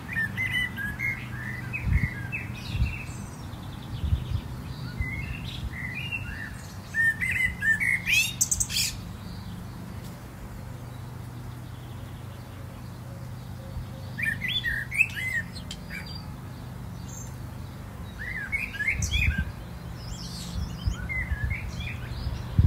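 Small birds chirping in several short bunches of quick calls, with pauses between them. A steady low hum runs underneath.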